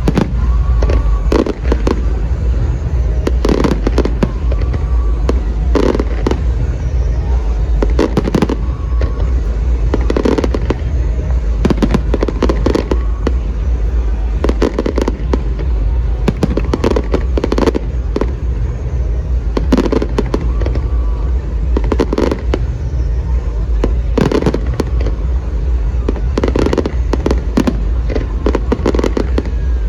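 Fireworks display: aerial shells bursting in quick succession, many sharp bangs one after another over a steady low rumble.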